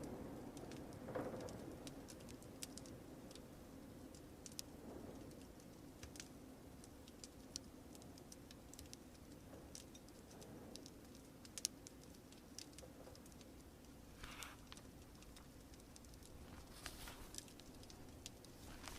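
Log fire crackling quietly, scattered sharp pops and ticks over a soft steady rush, with a couple of brief paper rustles like pages being turned.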